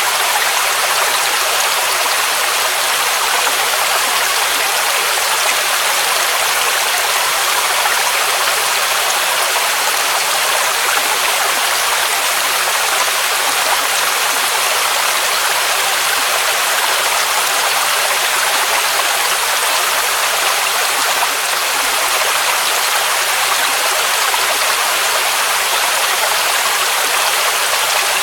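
Waterfall rushing: a steady, even roar of falling water, its energy mostly in the mid and high range with little low rumble.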